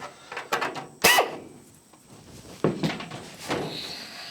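A few sharp clicks and knocks of tools and parts being handled at a workbench, the loudest about a second in, with a faint thin high tone near the end.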